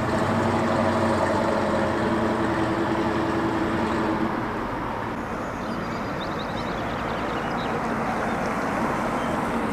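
1971–73 Ford Mustang engine running at steady, low revs as the car cruises past, its note fading out about four seconds in as it moves away, leaving street traffic noise.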